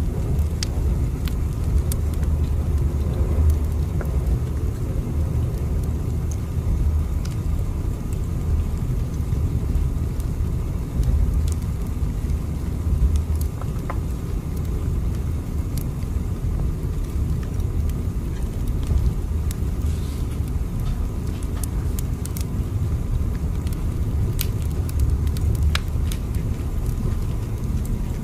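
Train running: a steady low rumble with a faint steady hum above it and scattered light clicks and rattles.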